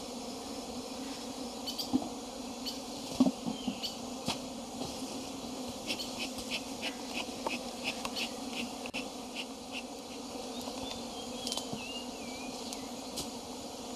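Honey bees buzzing steadily around an opened hive during a honey harvest. A run of light clicks comes through in the middle, and a faint wavering whistle near the end.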